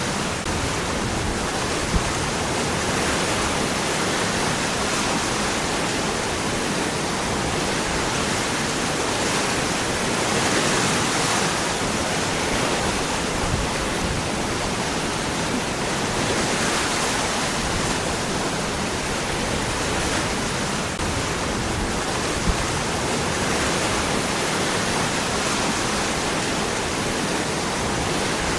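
Waterfall: a steady, dense rush of water falling and running over rocks.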